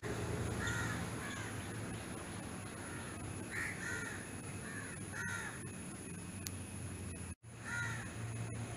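Birds calling outdoors: short repeated calls at irregular intervals over a steady low hum, with the sound cutting out for a moment near the end.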